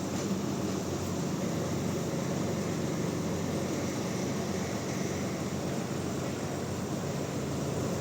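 Large sawmill bandsaw running steadily, a continuous machine drone with a low hum underneath.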